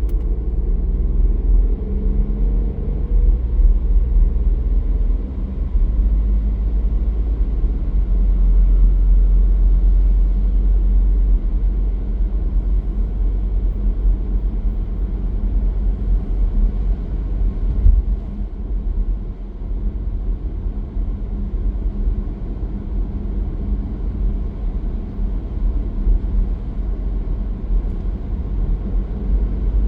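Car driving on the road: a steady low rumble of engine and tyres. About two seconds in, the engine's pitch rises as it accelerates.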